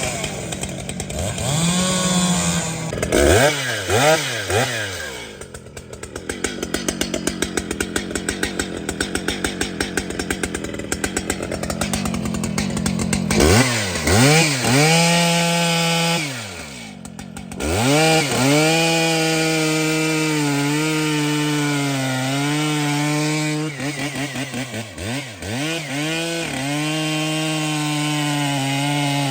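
Large two-stroke chainsaw revved up and down several times, running at a pulsing lower speed in between, then held at high revs through the last ten seconds or so.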